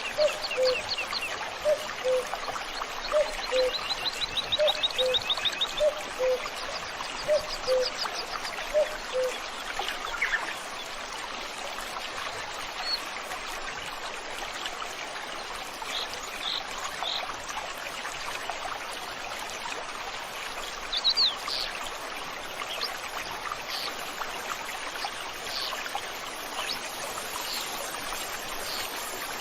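Steady rush of a flowing stream with wild birds singing over it. A low two-note call repeats about once a second for the first nine seconds. Fast high trills come in the first six seconds, and short high chirps are scattered through the second half.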